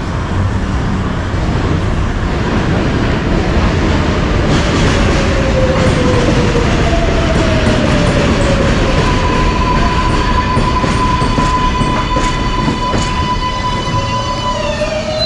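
A train passing close by on the track, rumbling on the rails, with squeals that slide up and down in pitch and a steady high squeal from about nine seconds in until near the end.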